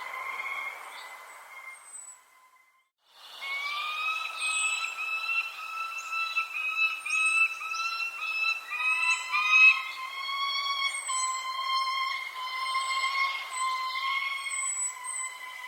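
Short, high bird chirps repeating over a steady, slightly wavering whistle-like tone. The sound cuts out for about a second around two seconds in, then resumes.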